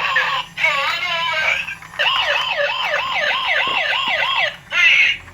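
Electronic police siren yelping: a quick rise-and-fall of pitch about two and a half times a second, after a shorter wavering siren stretch near the start.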